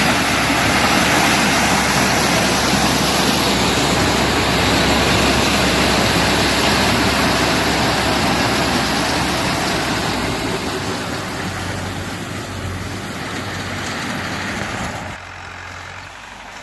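Tractor-driven corn harvester running while harvesting, a loud dense mechanical noise over the engine's hum; it slowly fades, then drops off sharply near the end.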